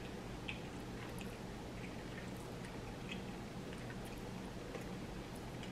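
Faint close-up chewing of food, with a few soft mouth clicks and smacks over a steady low hum.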